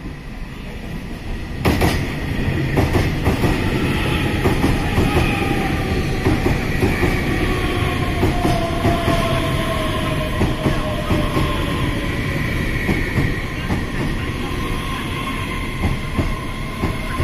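EMU3000 electric multiple unit train pulling into a station, its wheels clattering over the rail joints. It gets suddenly louder about two seconds in, and a whine falls slowly in pitch as the train slows.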